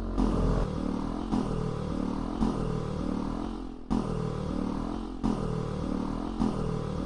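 Honda XRM 125 Fi's single-cylinder four-stroke engine running steadily at idle just after a top-end rebuild with a new piston and bore; the knocking it had before the repair is gone.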